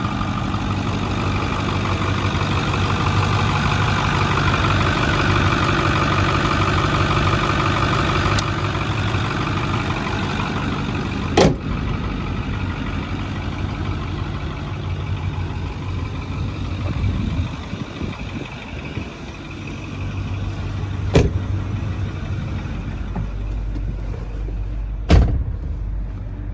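Ford 6.4 L Power Stroke V8 diesel idling steadily, with no blow-by by the owner's check. Three sharp knocks come through the idle, the last about a second before the end.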